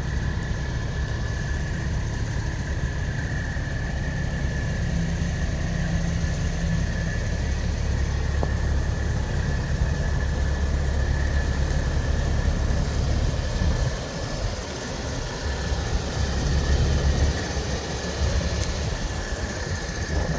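Low, steady rumble of heavy diesel truck engines running, with a thin steady high tone above it.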